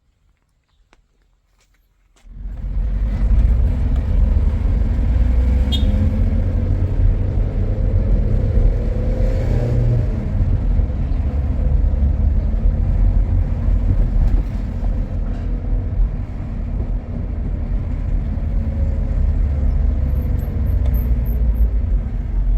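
Steady low rumble of a motor vehicle on the move, starting abruptly about two seconds in after near silence.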